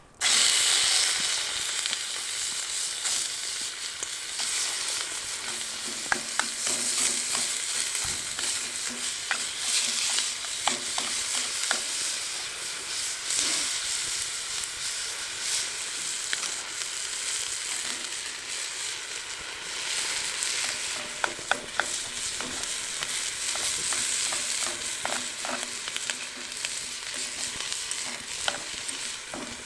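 Food frying in oil in a pan, a steady sizzle with scattered sharp pops and clicks.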